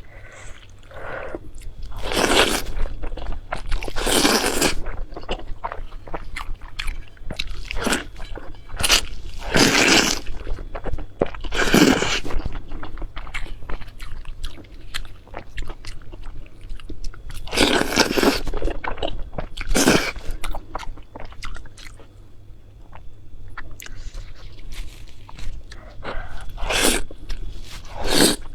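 Close-miked eating: crunchy bites and chewing, with loud crunches every couple of seconds and small clicking chews between them.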